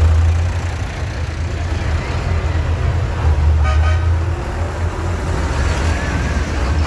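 Tractor engines running with a steady low rumble, and a short horn toot a little past halfway.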